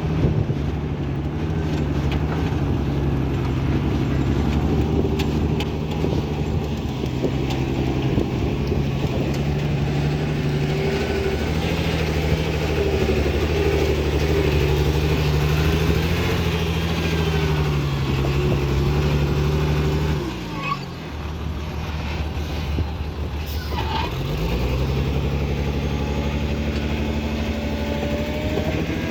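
Bulldozer's heavy diesel engine working, its pitch wavering with the load. The engine note drops sharply about two-thirds of the way through, dips again briefly a few seconds later, then picks back up.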